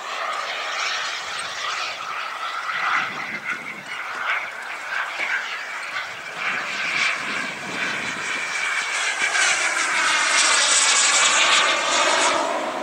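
Turbine engine of a radio-controlled model Rafale jet in flight, a steady jet hiss that grows louder as the plane comes past close near the end, then falls away.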